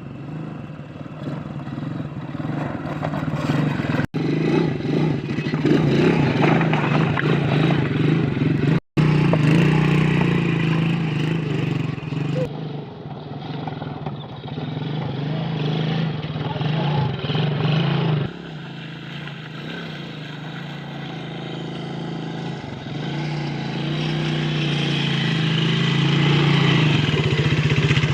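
Quad bike (ATV) engine running steadily under way, with rising and falling revs. The sound drops out for an instant twice and shifts level a couple of times where the footage is cut.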